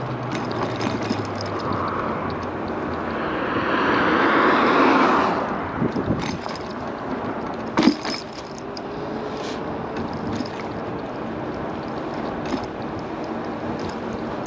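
Road traffic noise heard from a moving electric scooter. A vehicle passes, swelling and fading about four to five seconds in, and a single sharp knock comes about eight seconds in.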